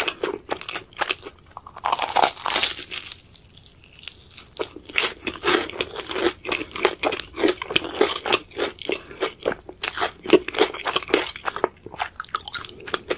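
Close-miked crunching and chewing of crispy battered Korean corn dogs, many sharp crackly crunches in quick succession with a short lull a little over three seconds in.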